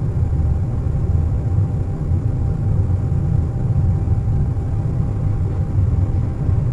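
Airliner cabin noise in cruise flight: a steady, deep rumble with an even hiss above it and a faint constant tone running through it.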